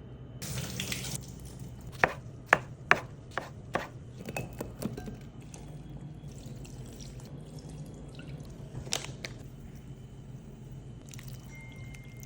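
A short rush of water, then a run of sharp, irregular knife strikes on a cutting board, with one more near the end.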